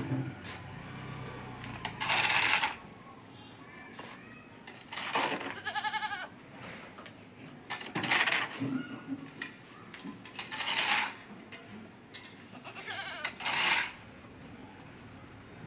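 A goat feeding on green fodder, with short noisy bursts of plant material every two to three seconds. The goat gives one short bleat about six seconds in.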